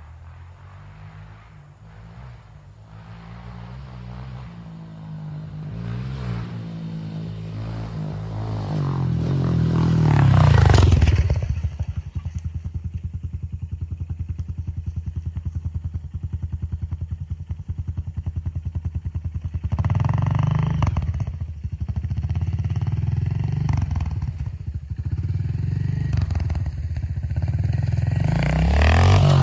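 Honda CRF125FB's single-cylinder four-stroke engine being ridden. It builds gradually and revs up to a peak about ten seconds in, then drops back to a steady lower run with an even pulse. It revs up again around twenty seconds in and climbs once more near the end.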